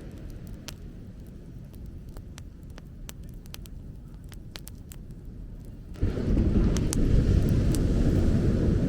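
Bonfire crackling with scattered sharp pops over a steady low rumble. About six seconds in, the rumble jumps suddenly much louder and stays there.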